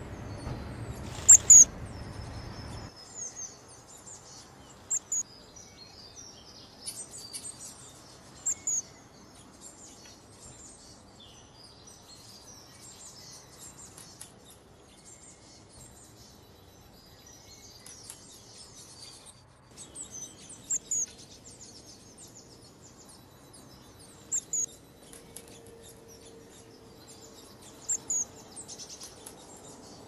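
Small birds chirping and twittering in thin, high calls, with sharp louder call notes every few seconds, the loudest pair about a second and a half in. A low background noise cuts off about three seconds in.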